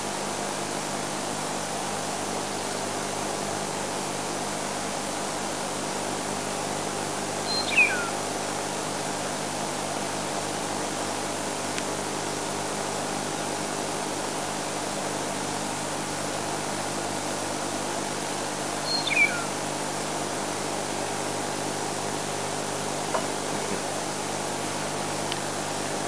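Two short bird calls, about eight and nineteen seconds in, each falling in pitch, over a steady low hum and hiss.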